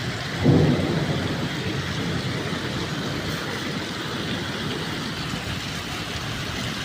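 Steady rain falling, an even hiss, with a brief low rumble about half a second in.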